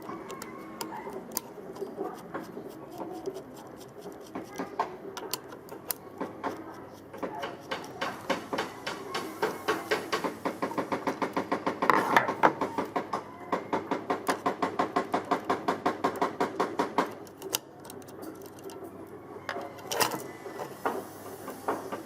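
Hand work on the parts of an old portable planer: scattered clicks and knocks, with a run of rapid, even strokes at about four a second from about seven seconds in until near the end.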